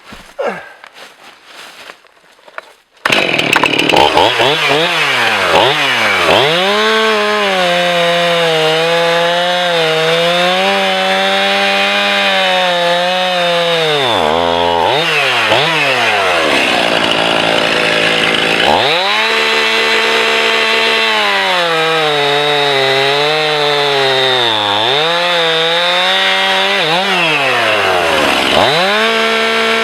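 Gas chainsaw cutting into a tree trunk for a felling notch, starting abruptly about three seconds in. Its engine pitch drops repeatedly as the chain bogs into the wood, then climbs back.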